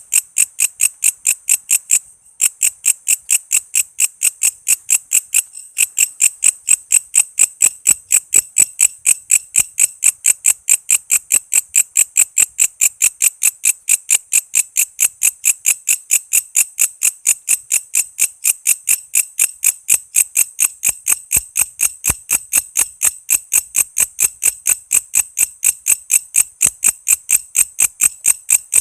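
Walang kece, an Indonesian katydid, calling in a fast, even train of sharp chirps, about four a second, with brief breaks about two seconds in and again around five and a half seconds.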